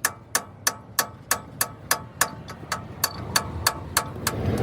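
A hammer striking steel in a steady rhythm, about three blows a second, each with a short metallic ring. A low rumble rises near the end.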